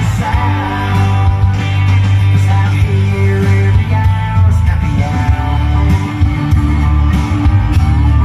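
Rock song with singing and guitar played loud through a repaired Kevler KAV-1400 amplifier during a test run.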